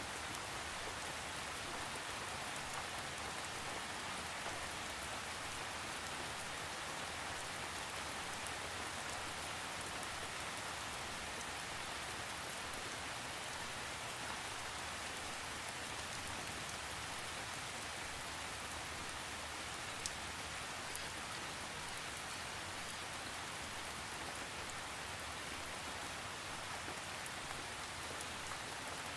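Steady rain falling with an even hiss, with now and then a single sharper drop ticking, one most noticeable about two-thirds of the way through.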